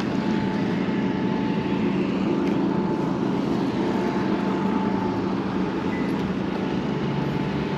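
Steady rumble of vehicle traffic with a faint steady tone above it, even throughout with no sharp events.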